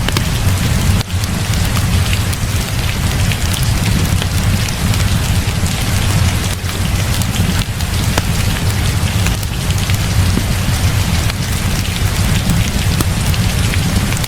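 Heavy rain falling steadily over a deep, even rumble, mixed with a crackling wood fire whose sharp pops come at scattered moments.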